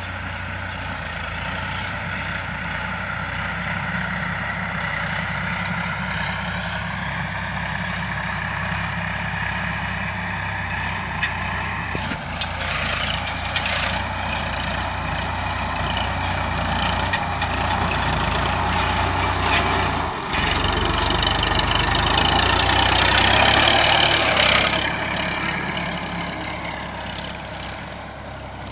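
Sonalika DI 745 tractor's diesel engine running steadily, with a few knocks along the way; it grows louder about two-thirds of the way through, then eases off near the end.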